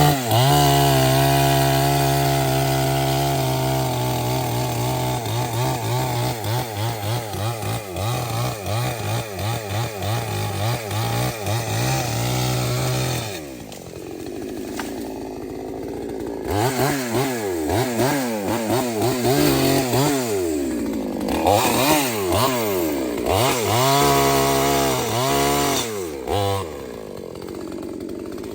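Chainsaw running at high revs with its pitch wavering as it cuts wood. About 13 seconds in it drops to a lower speed, then is revved up and down repeatedly.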